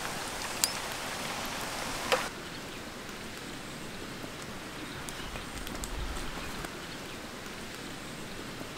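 Shrimp sizzling as they fry in oil in a pan. There is a sharp click about two seconds in, and then the sizzle stops, leaving a quieter background hiss.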